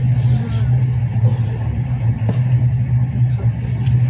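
Intercity train running at speed, heard inside the passenger coach: a steady low rumble and hum of wheels on the track, with a few faint clicks.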